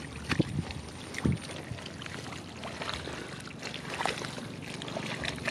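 Irregular splashing and sloshing in shallow muddy water, with a few louder slaps in the first second and a half.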